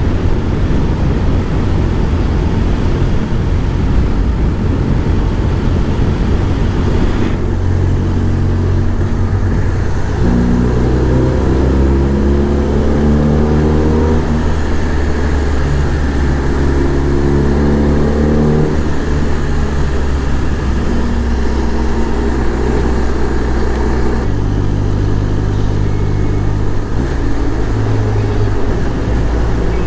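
BMW R1200 flat-twin motorcycle engine under way, heard with heavy wind noise on the helmet microphone at first. The engine note then climbs in pitch twice as the bike accelerates, and it changes again near the end.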